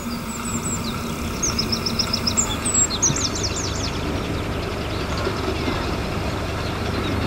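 A bird sings a quick run of high, repeated chirps in the first half, over a steady low rumble that grows slightly louder toward the end.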